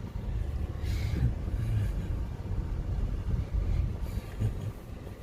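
Low, uneven rumble of a car moving slowly along a dirt road, with some wind on the microphone.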